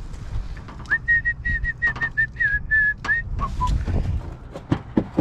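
A person whistling: one high note held for about two seconds with small wavers, then two short lower notes, over scattered clicks and knocks of tools and parts being handled.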